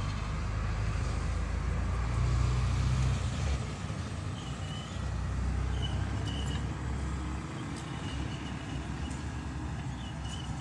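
Mitsubishi BD2G bulldozer's diesel engine working under load while pushing dirt. It swells louder about two seconds in, then eases back, with short high squeaks in the second half.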